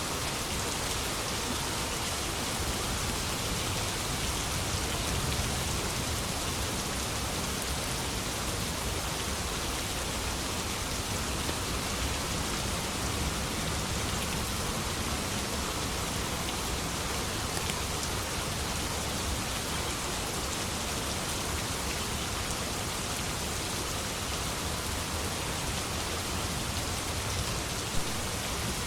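Steady, even rainfall, with a single sharp drop or tap near the end.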